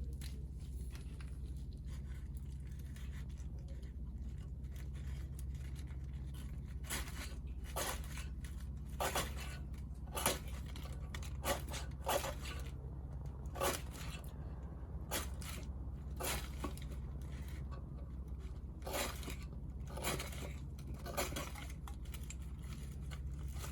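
Hinoki wood offcuts burning in a campfire, crackling with irregular sharp pops over a steady low rumble.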